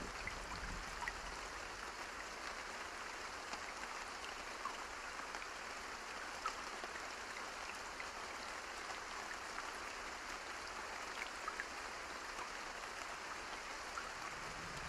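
Steady rain falling, an even hiss with scattered single drops ticking, in a lull between thunder rolls.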